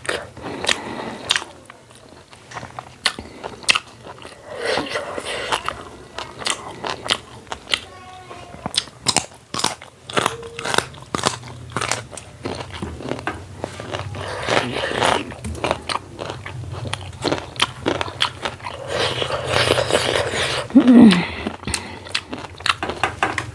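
A person eating close to the microphone: chewing and biting, with crisp crunches and wet mouth clicks in irregular bursts.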